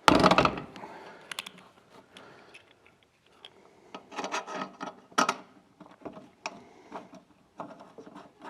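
Small metal parts being handled: a loud clunk at the start, then scattered clicks and a brief rattle as a washer is fitted and a thumb screw is threaded into a steel bandsaw table.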